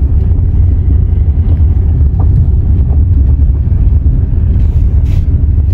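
Steady low rumble of a moving game-drive vehicle.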